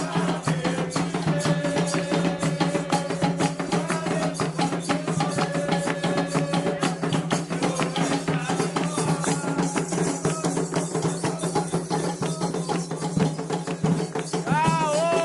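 Candomblé ritual music: atabaque hand drums playing a fast, dense rhythm with sharp clicking percussion, while voices hold long sung notes. A short swooping vocal glide comes near the end.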